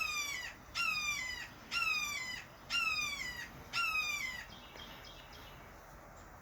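A hawk calling five times in a row, about once a second. Each call is a harsh scream that falls in pitch. The calls stop a little past the middle.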